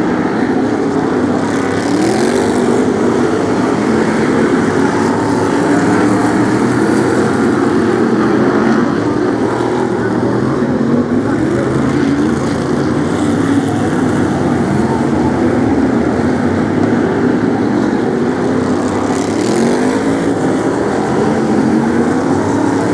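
A pack of BriSCA F1 stock cars racing, their V8 engines revving up and down in overlapping waves as the cars lap.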